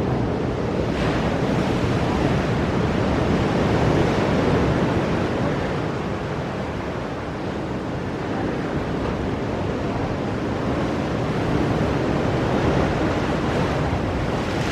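Ocean surf breaking on rocky shore: a continuous roar that swells and eases slowly, with wind buffeting the microphone.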